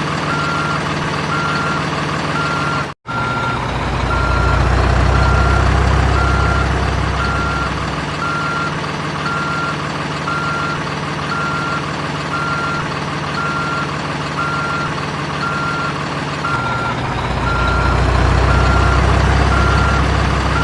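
Toy RC excavator's electronic sound module playing a simulated diesel engine with steady warning beeps, about one every three-quarters of a second. The engine sound swells louder twice and cuts out for an instant about three seconds in.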